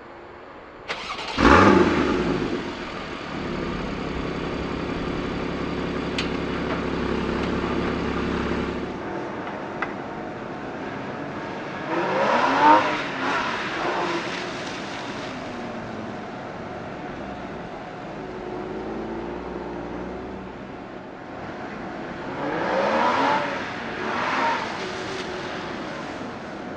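Porsche Boxster S (981) 3.4-litre flat-six engine starting about a second in with a loud flare, then settling into a steady idle. Later the engine revs up and down in two bursts as the car is driven hard.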